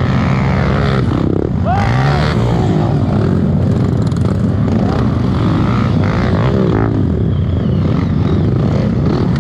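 Trail motorcycle engine running hard, its pitch rising and falling repeatedly as the throttle opens and closes.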